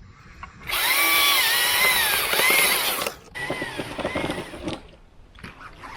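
Battery-powered electric chainsaw running in three bursts, its motor whine dipping in pitch as the chain bites into the oak; the first burst is the loudest.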